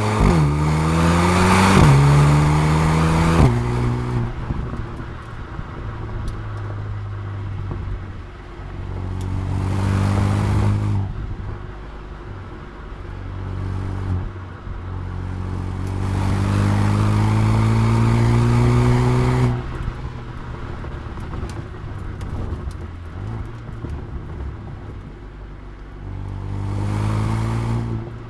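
Mercedes-AMG A35's turbocharged four-cylinder engine and exhaust accelerating hard, in four pulls with the pitch rising. The first pull is cut twice by quick upshifts. Between pulls the car settles to a lower, steadier drone off the throttle, with scattered crackles from the exhaust.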